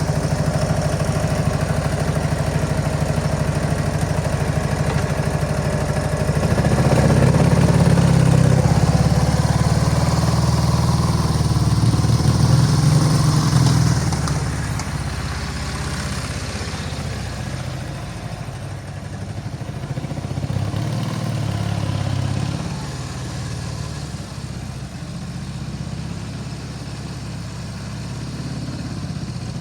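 Ural M67-36 motorcycle's flat-twin engine running. About seven seconds in it gets louder with revs raised for several seconds, then drops back to a lower, quieter running note for the rest of the time.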